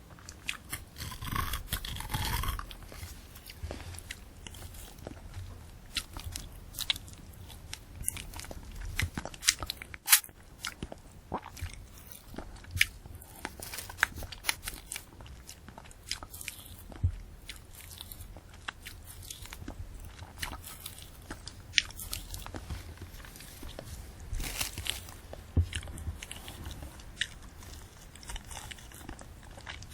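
Close-miked chewing of a candy apple: the hard red sugar shell and the crisp apple crunch and crackle in many sharp, irregular snaps.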